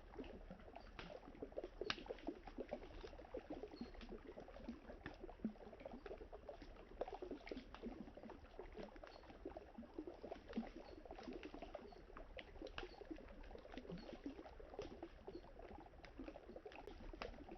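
Wood campfire crackling, with frequent sharp pops scattered irregularly, over the low steady run of river water.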